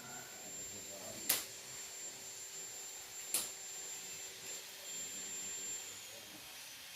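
Two sharp clicks about two seconds apart, over a faint steady high-pitched whine that stops near the end.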